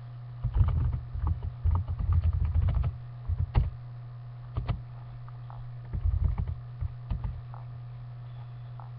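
Irregular low thumps and clicks, in clusters over the first three seconds and again around five to seven seconds in, over a steady low hum.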